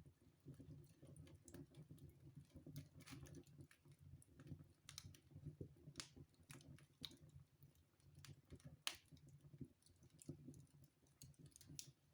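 Wood fire burning in a fireplace: faint, irregular crackles and small pops over a low, steady rumble, with one sharper pop about nine seconds in.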